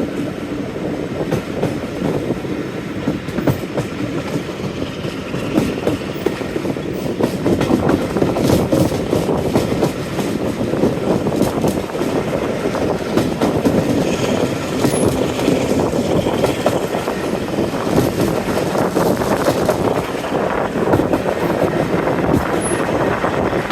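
Diesel-hauled passenger train, behind Class 45 locomotive 45108, running along the line: a steady rumble of wheels on rail with a continuous clatter from the track.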